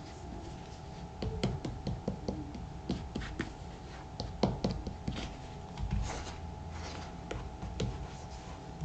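Hands working shoe cream into a leather work boot: irregular soft rubbing strokes with scattered small taps and clicks, over a faint steady hum.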